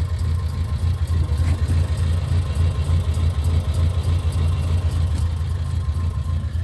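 1973 Lancia Fulvia's narrow-angle V4 engine idling steadily, heard from low down under the car near the exhaust pipe.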